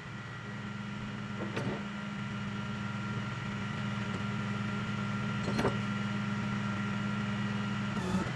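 Vehicle drone heard from inside a moving truck cab: a steady low hum with a couple of faint clicks, one about a second and a half in and one near six seconds.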